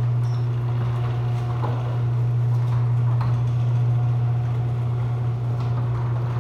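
Garage door opener motor running steadily as it lifts a door with only one working spring, a low hum with light rattles and clicks from the door.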